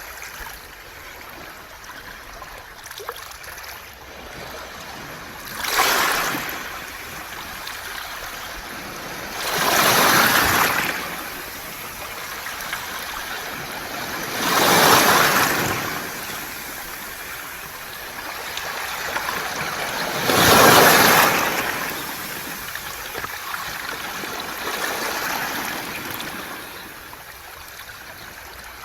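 Waves surging up a round-pebble beach and washing over the stones, with the fizz and rattle of water running through the pebbles. About four big surges come roughly five seconds apart, the one near the end of the middle stretch being the loudest.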